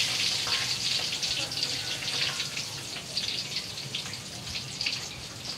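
Eggplant pieces frying in hot oil in a wok: a steady sizzle with small crackles that slowly dies down.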